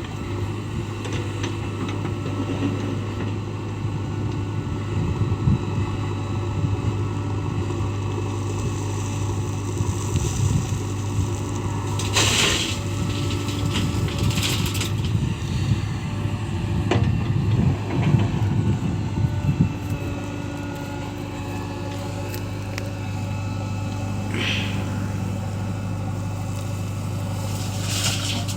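A JCB backhoe loader's diesel engine runs steadily while it loads mud into a tipper truck. Crunching and clattering of soil being scooped and dumped come mostly in the middle, and a short hiss comes about twelve seconds in.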